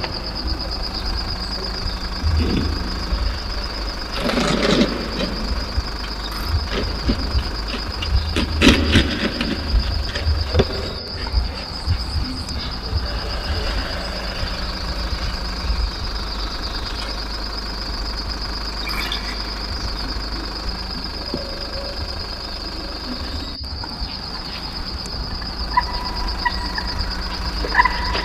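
A small motor whining steadily at a high pitch over a low rumble, with bursts of clatter about four and eight seconds in and a few short beeps near the end.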